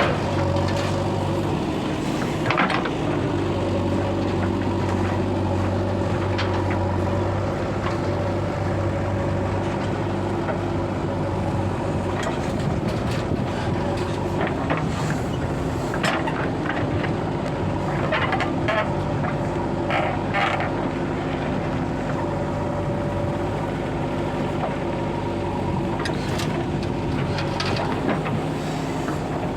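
Diesel engine of a JCB 3DX backhoe loader running steadily while digging and loading soil. Its low hum shifts about 7 s in, and scattered knocks and clatters come through, several close together in the middle and near the end.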